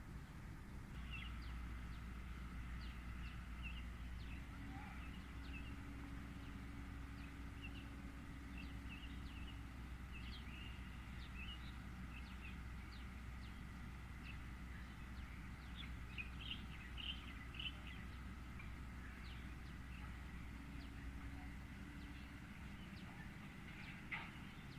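Olive-backed sunbird chirping: many short, high chirps scattered throughout, over a steady low hum in the background.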